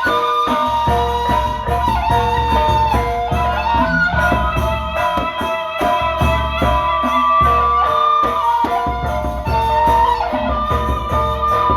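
Gendang beleq ensemble music: drums and struck percussion keep a dense, steady rhythm under a held wind-instrument melody that shifts pitch every second or two.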